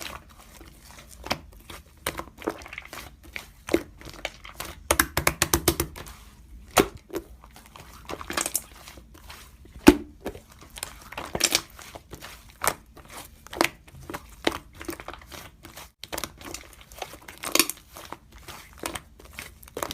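Slime being handled and squished by hand, making irregular sticky clicks and crackling pops.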